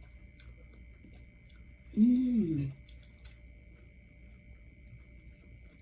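Close-miked chewing of a mouthful of pho, with small wet mouth clicks. About two seconds in comes a short hummed "mmm" of enjoyment that rises and then falls in pitch.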